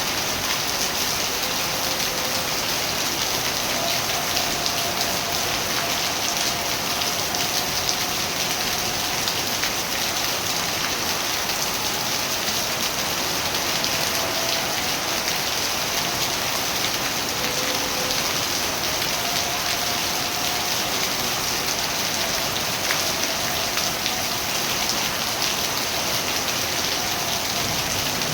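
Steady rain falling on surfaces, a continuous dense patter that holds at an even level. A faint wavering tone comes and goes underneath it.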